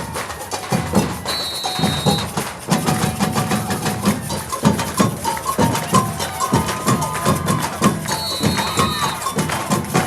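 Batucada drum ensemble playing a fast samba rhythm: deep bass-drum beats under dense snare and high-drum strokes. A high whistle sounds twice, about a second in and again about eight seconds in.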